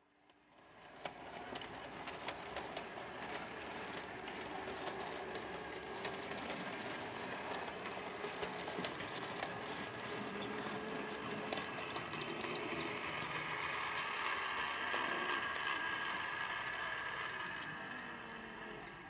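Model railway locomotive running along the track: a steady motor whine with many small clicks of the wheels on the rails. It builds up after a sudden start, is loudest about two-thirds of the way through, and fades near the end.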